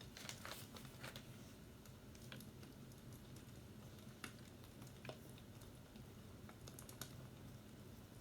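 Faint crackling fireplace: irregular small snaps and clicks over a low steady rumble.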